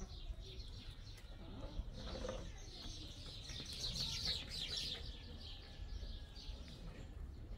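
Birds chirping in a dense, high twittering that swells about three to five seconds in, over a low rumble.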